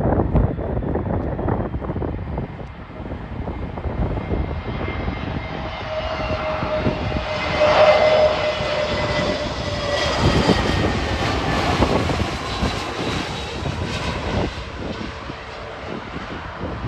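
A jet airliner passing close by, its engine roar building to a peak about eight seconds in and then fading, with a whine sliding down in pitch as it goes past.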